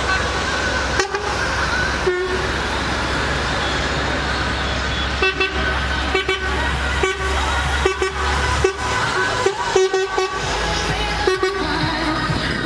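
Truck horns tooting, with short blasts coming in quick succession in the second half, over the steady low running of truck engines.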